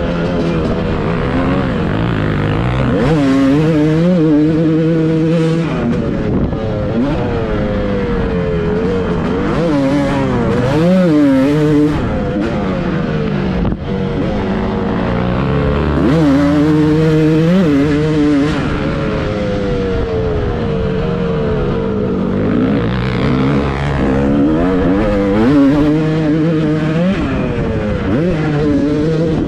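Motocross bike engine revving hard and repeatedly, its pitch climbing and dropping every couple of seconds as it works through the gears and throttle.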